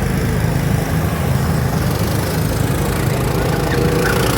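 A vehicle engine running steadily at low speed with a low rumble.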